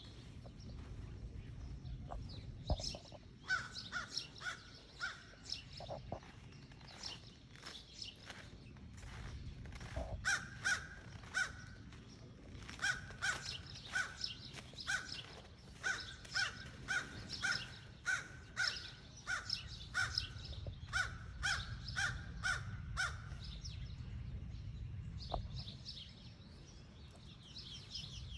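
A crow cawing over and over in bouts of short, loud caws, about two a second at their quickest, with short pauses between bouts. Small birds chirp faintly in the background.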